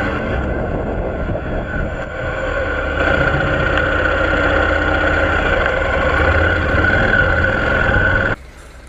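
Motor vehicle engine running steadily with road and wind noise; it gets louder about three seconds in and cuts off suddenly near the end.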